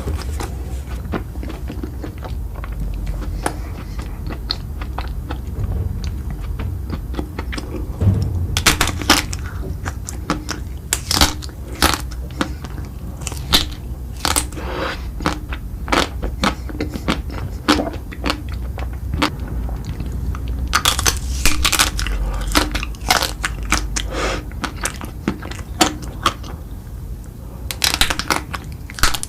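Close-up eating: crunchy bites and chewing, with clusters of sharp crunches that start about eight seconds in and come in bursts, after a quieter stretch of low rumble.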